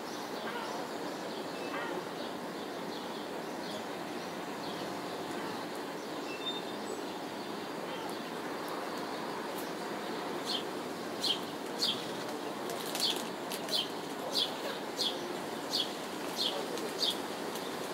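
Steady distant city noise, with a small bird chirping repeatedly from about ten seconds in: short high chirps, about two a second.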